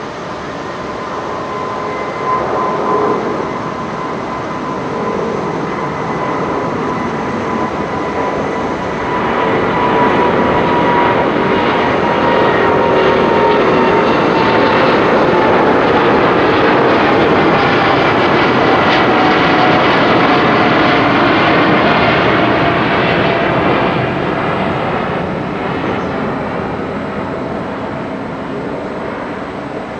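Airbus A350-900's Rolls-Royce Trent XWB jet engines at takeoff power. The roar swells to its loudest through the middle and eases off near the end, with a whine that slowly falls in pitch as the aircraft goes past.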